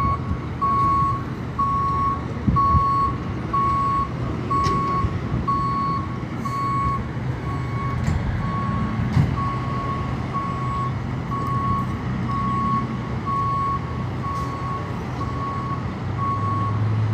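A truck's reversing alarm beeping steadily, about two beeps a second, over the low running of its engine.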